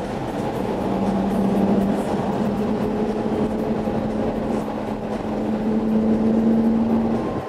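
Lamborghini Murciélago V12 running through a Kreissieg aftermarket exhaust while the car pulls away, its steady engine note climbing slowly in pitch and dropping away near the end.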